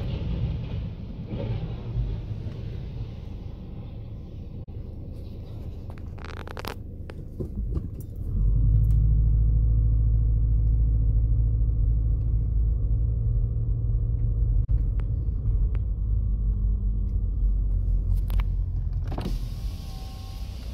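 Car engine running as the car moves, heard from inside the cabin: a loud, steady low rumble that starts abruptly about eight seconds in and eases off near the end, with a quieter mixed noise before it.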